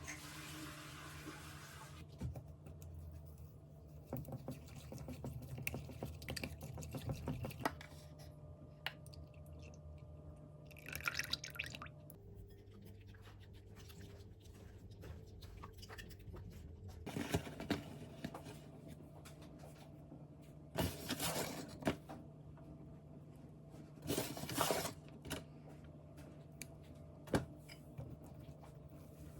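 Several short runs of water, pouring or running and dripping, in a small room, over a steady low hum.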